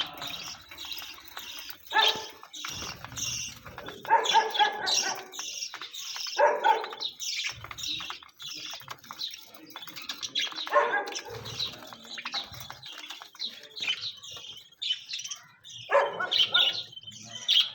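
Small pet birds chirping and chattering continuously, broken by several louder, harsh calls lasting about half a second to a second each.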